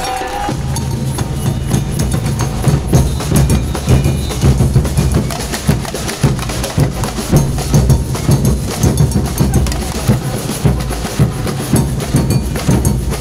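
A group of drums beaten together in a lively, driving rhythm, deep drum hits mixed with sharp, clacking wood-like strikes.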